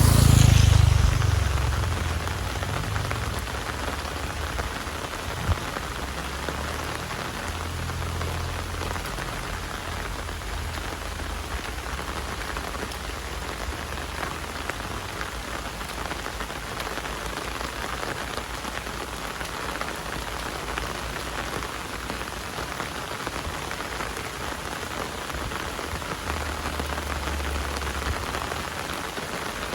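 Heavy rain falling steadily, an even hiss of drops on surfaces. At the very start a louder low rush fades away over about two seconds.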